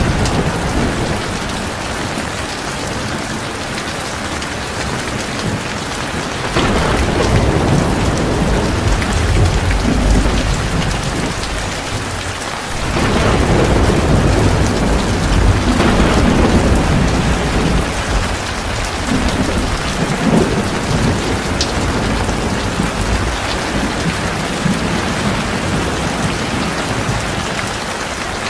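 Heavy rain pouring steadily, with low rumbles of thunder swelling and fading, the largest starting about halfway through.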